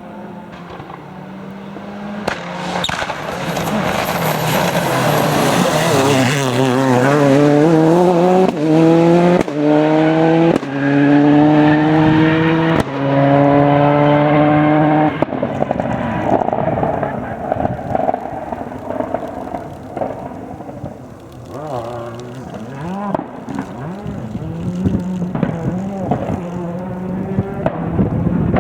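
Skoda Octavia WRC rally car's turbocharged four-cylinder engine approaching flat out and passing close by, its pitch climbing and dropping back through several quick upshifts. It then fades into the distance and is heard again faintly, rising in pitch, near the end.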